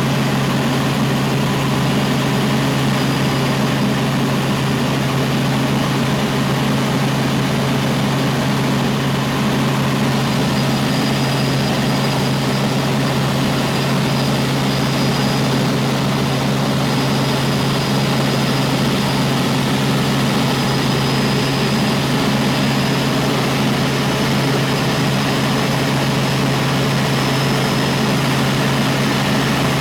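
Helicopter in steady flight: a constant engine and rotor drone with a strong low hum, and a thin high turbine whine that becomes clearer about a third of the way through.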